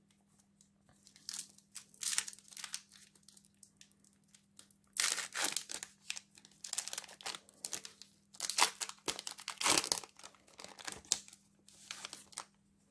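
Trading-card pack wrapper being torn open and crinkled by hand, in irregular spells of crackling that are loudest around the middle and again briefly near the end. A faint steady low hum runs underneath.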